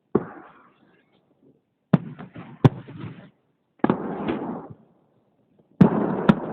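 Salute fireworks shells bursting overhead: about six sharp bangs at uneven intervals, each followed by a crackling rumble that dies away.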